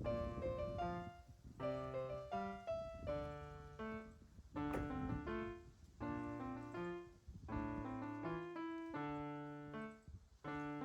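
Background piano music: chords struck and left to fade, a few times over.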